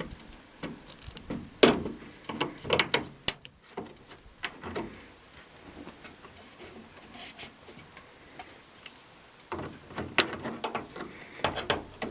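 Scattered clicks and knocks of hands working on the drain pump's hoses and clamps inside a front-load washing machine, with a quieter stretch in the middle and a cluster of clicks near the end.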